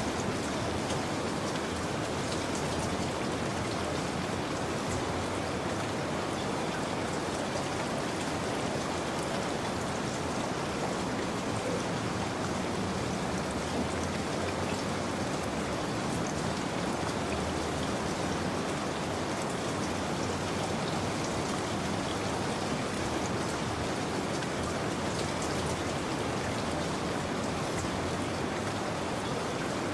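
Steady rain falling, a continuous even hiss with faint scattered drops pattering on a surface.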